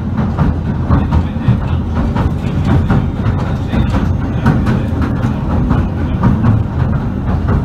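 Southend Pier Railway train running along the pier, heard from inside the carriage: a steady low rumble with constant clicking and rattling from the wheels on the track.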